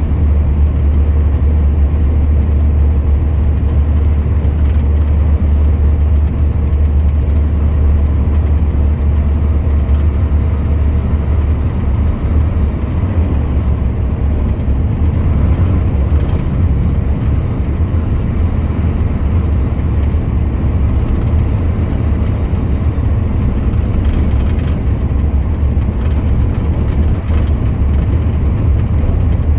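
Truck driving along at a steady pace: a steady low engine drone with road and tyre noise.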